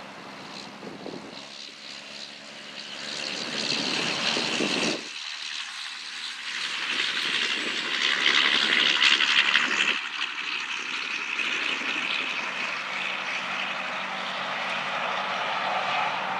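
Road traffic noise from heavy trucks going by, a steady rush of tyre and engine noise that swells as a truck passes. The sound changes abruptly about five seconds in.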